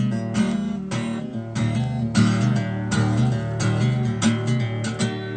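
Acoustic guitar strummed in a steady rhythm, a little under two strums a second, with no singing.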